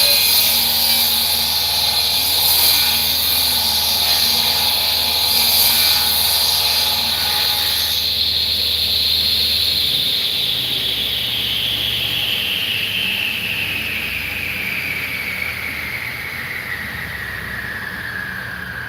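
A woodworking power tool's motor running with a high whine and a hissing cutting noise. The cutting noise stops about eight seconds in, and about ten seconds in the tool is switched off: its whine falls slowly in pitch as it winds down.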